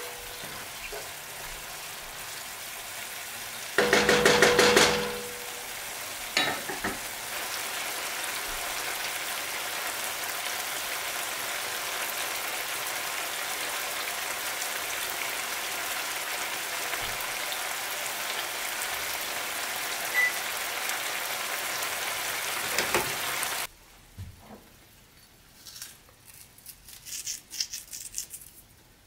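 Spinach and shallots sizzling steadily in a nonstick frying pan as they are stirred with a wooden spoon, with a loud burst about four seconds in. The sizzle cuts off suddenly near the end, followed by faint scattered rattling as salt is shaken over the pan.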